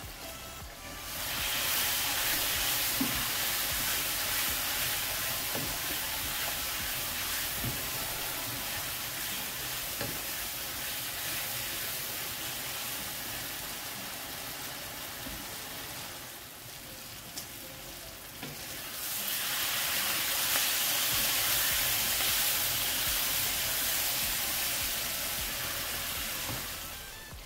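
Chicken sausages frying in an oily spicy masala in a pan, sizzling steadily. The sizzle swells about a second in, eases for a few seconds past the middle, then rises again. A few light knocks from a wooden spatula come through.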